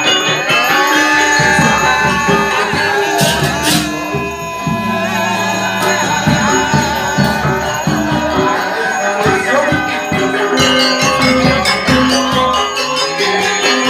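Traditional music with ringing bell-like tones and rattling, jingling percussion, struck in a busy, continuous pattern.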